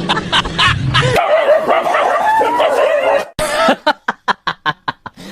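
A dog barking and whining, with yips, over the first three seconds, cut off suddenly. It is followed by a rhythmic plucked music track.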